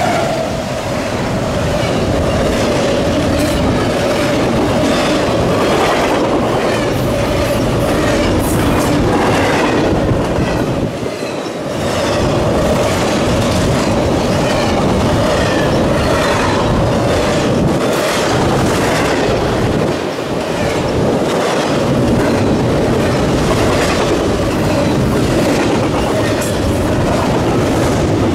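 Freight train of an intermodal consist rolling past, its wheels clacking rhythmically over rail joints with a steady wheel squeal running through. The level dips briefly twice.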